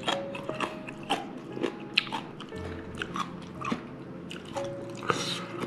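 A person chewing and biting food close to the microphone, with many short crisp crunches, over soft background music.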